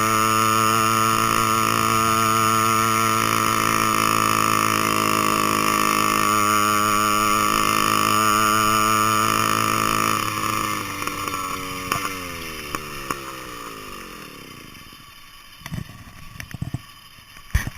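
An 80cc two-stroke bicycle engine kit runs at a steady pitch for about ten seconds. Its pitch then falls steadily over several seconds as the engine slows down and fades. A few scattered clicks and knocks follow near the end.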